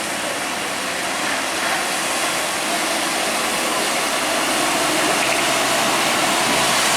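Truck running on the road: a broad rushing noise with a faint low engine note, growing slowly louder.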